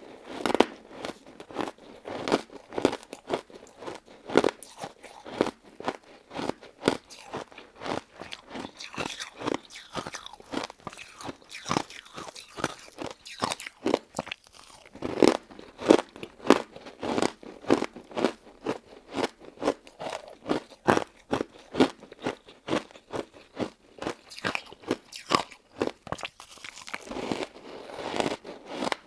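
Close-miked biting and chewing of a crunchy crystal-ice and citrus jelly dessert: crisp crunches repeating all through, several loud bites among finer crackling.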